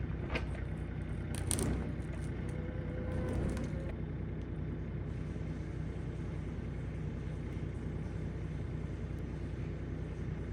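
An engine running steadily at a low idle, with a couple of short knocks about a second and a half in.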